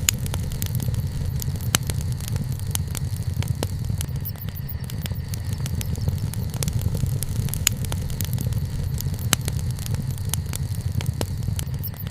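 Wood campfire burning, with frequent sharp crackles and pops at irregular intervals over a steady low rumble.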